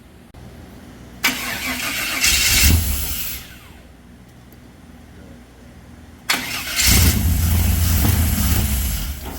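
The buggy's newly swapped engine runs in two loud bursts of engine noise, the first about a second in lasting two seconds, the second starting about six seconds in and lasting about three seconds.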